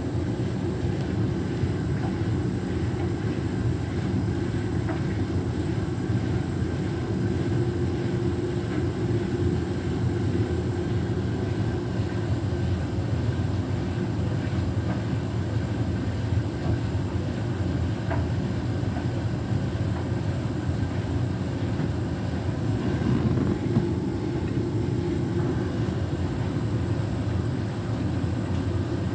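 Beko WTK104121W washing machine drum turning with a steady low rumble after the load has gone out of balance, so the intermediate spin does not go ahead.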